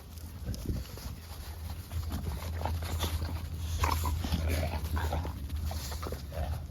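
American bully dogs making a run of short, high calls while playing, starting about two and a half seconds in and continuing to near the end, over a steady low rumble.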